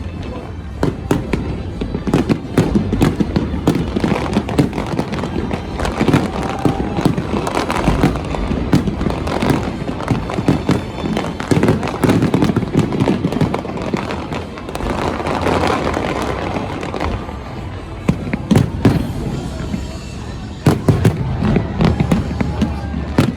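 Aerial fireworks display: a dense, continuous barrage of bangs and crackling shells going off in quick succession.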